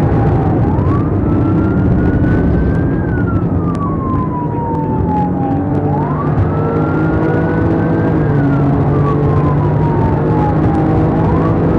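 Police car siren in a slow wail, sweeping up and then down about every five seconds. Steady vehicle engine and road noise runs underneath.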